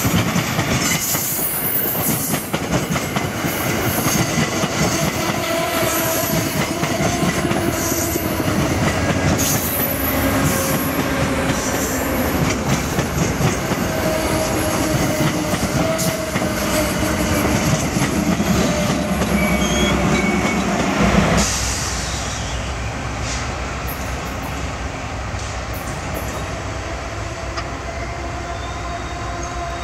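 Diesel passenger train rolling slowly on jointed track, wheels squealing and clicking over the rail joints. About 21 seconds in, the wheel noise stops abruptly and a steady low diesel drone remains.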